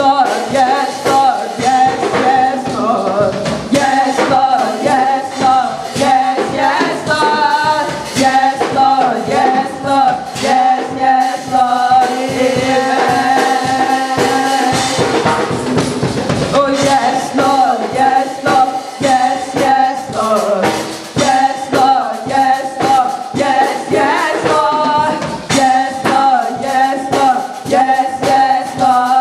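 A church choir singing a worship song with a band, over a steady beat.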